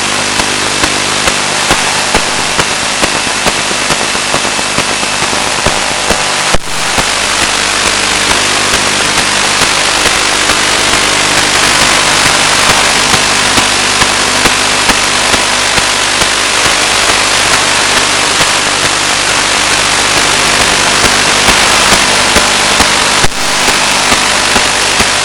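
Loud, steady hiss of static on an analog FPV video downlink's audio channel, with faint low hum under it and small ticks about one and a half times a second. It drops out for a moment twice, near 6.5 s and again near the end.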